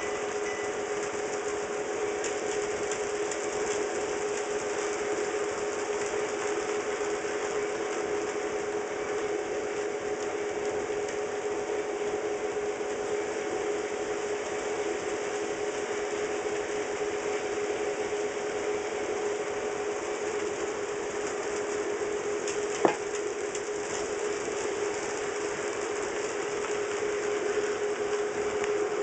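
HO scale model trains running on DC power: a steady electric motor whine over the small mechanical rattle of wheels and gears on the track, with one sharp click about three quarters of the way through.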